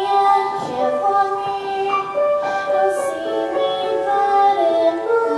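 A young woman singing a slow ballad in long held notes, over keyboard accompaniment.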